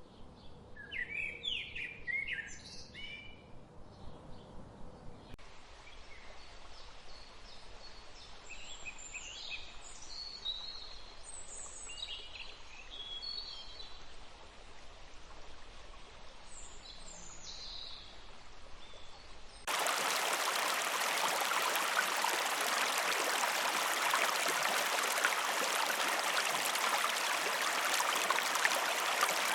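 Several birds singing and calling, with short chirps and whistles over a faint forest background. About two-thirds of the way through, it cuts suddenly to the louder, steady rush of a stream.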